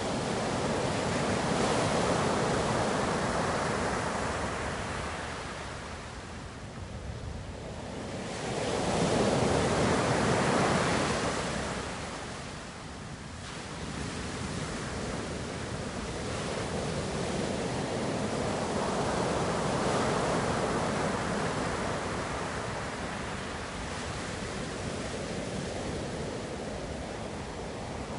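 Ocean waves breaking and washing up the shore, a steady rushing surf that swells and ebbs, with louder surges about two, ten and twenty seconds in.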